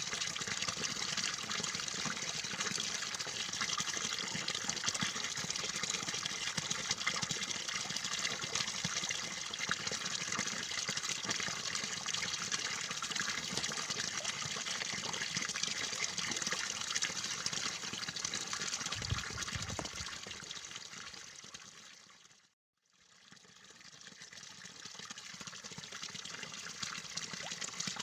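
Steady flowing, trickling water. It fades out about three quarters of the way through, goes silent for a moment, then fades back in.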